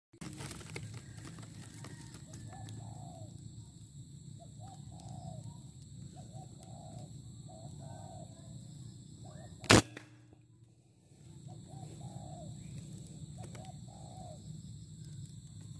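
Birds giving repeated short cooing calls, one or two every second or so, over a steady low rumble. A single sharp crack about ten seconds in is the loudest sound, and the calls stop for a second or two after it.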